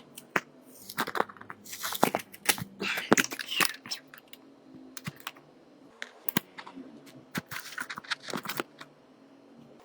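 Small sharp clicks and taps of hard plastic and metal parts and tools being handled during a smartphone repair, with a few short scraping or tearing noises about a second in, near the middle and near the end.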